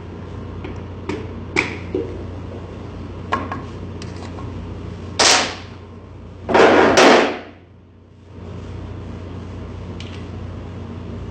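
Sharp clicks and taps of metal engine parts and hand tools during a piston and ring installation. Two louder, longer rushing scrapes come about halfway through, over a steady low hum.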